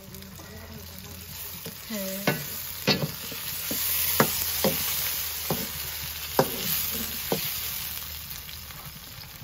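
Chopped tomatoes, onions and garlic sizzling in oil in a metal wok while a wooden spoon stirs them, knocking and scraping against the pan a dozen or so times through the middle. The sizzle swells in the middle and eases off towards the end.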